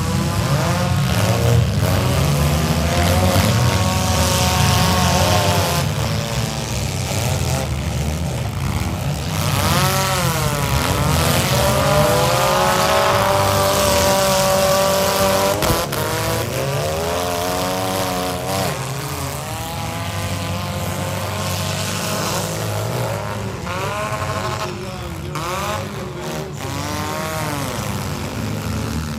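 Engines of several battered demolition-derby compact cars revving and running, their pitch sweeping up and down as they accelerate and ram, with a few short sharp knocks from the second half on.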